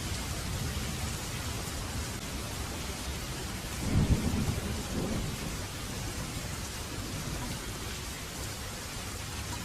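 Heavy rain falling steadily, with a clap of thunder about four seconds in that rumbles and fades over a second or two.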